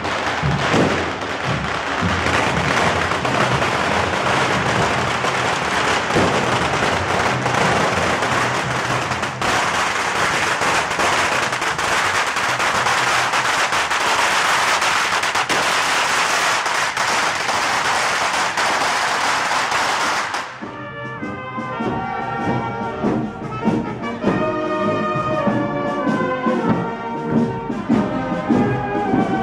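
Fireworks and firecrackers crackling and banging densely for about twenty seconds, then a sudden cut to a brass band playing.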